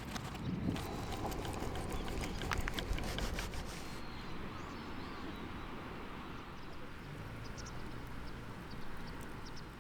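Wood campfire crackling, with scattered sharp pops over a steady low bed of noise; the pops come thickly for the first few seconds, then more sparsely.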